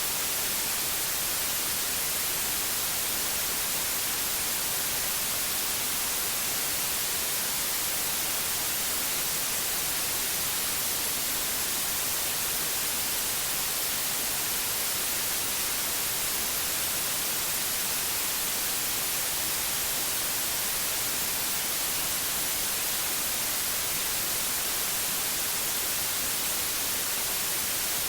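Steady synthetic white noise: an even, unbroken hiss, brightest in the treble, with no changes or events.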